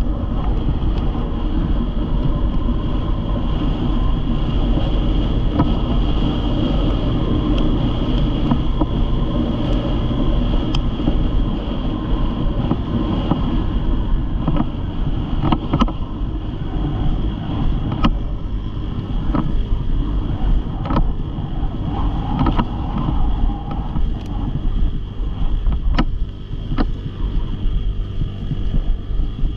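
Motor vehicle engine running steadily at a near-constant speed, with wind on the microphone and scattered sharp clicks.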